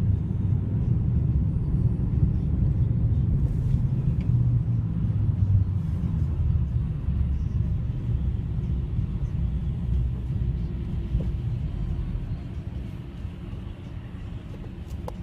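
Steady low engine and road rumble of a moving vehicle, picked up by a dashcam. It eases off somewhat about twelve seconds in.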